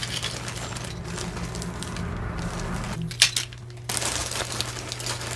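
Pieces of costume jewelry clinking and rustling as they are handled and sorted, with one sharper click about three seconds in.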